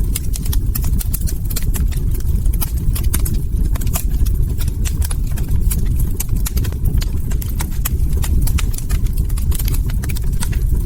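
Log fire crackling: a dense, irregular run of sharp snaps and pops over a steady low rumble of burning.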